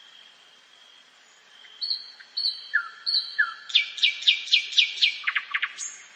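Nightingale singing one song phrase: starting about two seconds in with a few drawn-out whistled notes, then a loud run of repeated down-sweeping notes, about four a second, quickening into lower, faster notes and ending on a single high note.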